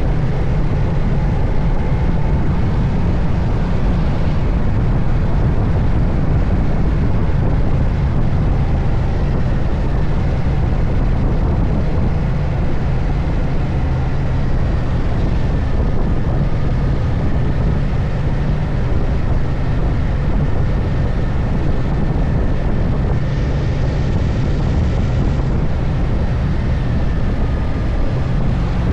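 Moto Guzzi Stelvio motorcycle riding at speed: a steady, heavy wind and road rush with the engine running underneath, and faint whining tones that drift slowly in pitch.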